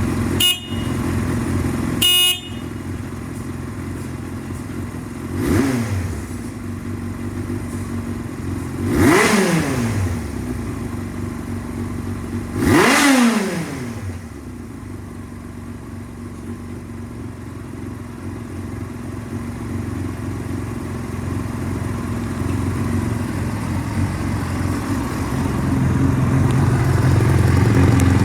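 Yamaha YZF-R1's inline-four engine idling, blipped three times, each rev rising quickly and falling back to idle. Two brief sharp sounds near the start, and the idle grows louder near the end.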